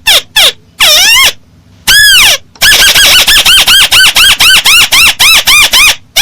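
A paddy-field crake (burung tikusan sawah) calling. There are a few short notes, then one long call that rises and falls about two seconds in, followed by a fast, regular run of short arched notes at about four a second.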